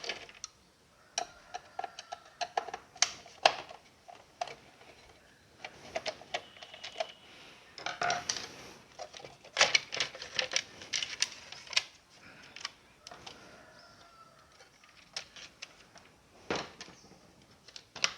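Irregular clicks, knocks and short scrapes of a mixer grinder's plastic body and parts being handled and pulled apart as its cover is taken off.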